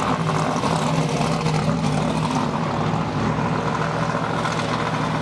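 Steady drone of a car driving at road speed: a constant engine hum under road and wind noise.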